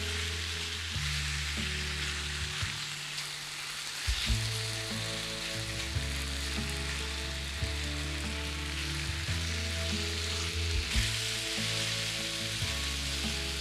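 Keichan, chicken pieces in a garlic-soy-sauce marinade, sizzling steadily as it fries in a pan, with a few light clicks scattered through.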